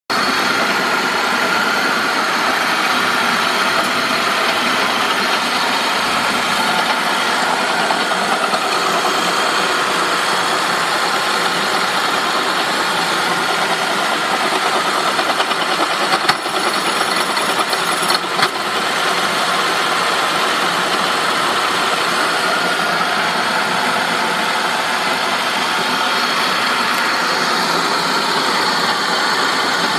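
2003 Saab 9-5 engine running with a steady metallic grinding noise, the fault the owner is trying to track down. Two brief knocks a little past halfway.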